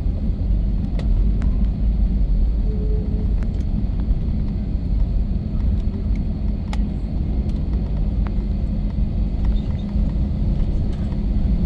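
Steady low rumble from an Airbus A321's jet engines, with a few faint clicks.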